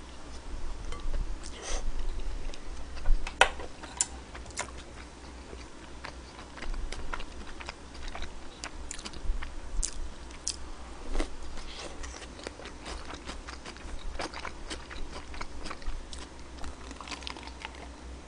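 Close-miked chewing and biting of mouthfuls of food, with scattered wet clicks and light crunches; the sharpest clicks come about three to four seconds in.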